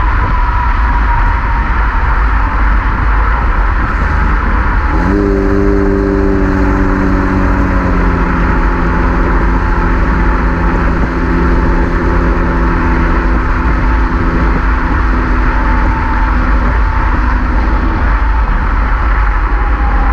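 2016 Chevrolet Camaro's 3.6-litre V6 through a Borla ATAK axle-back exhaust, driving at steady speed over a heavy low road rumble. The exhaust note comes up sharply about five seconds in, then holds and slowly sinks in pitch, fading near the end.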